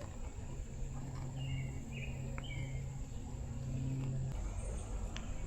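Outdoor creekside ambience: a few short bird chirps in the middle, over a steady low hum that starts about half a second in and cuts off about four seconds in, with a thin steady high whine throughout and a couple of faint clicks.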